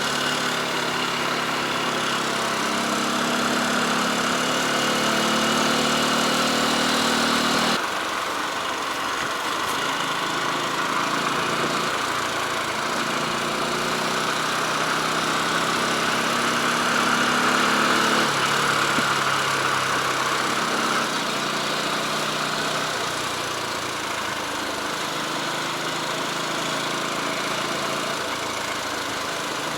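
Motorcycle engine running steadily while riding, over a constant hiss. The engine note changes abruptly about eight seconds in.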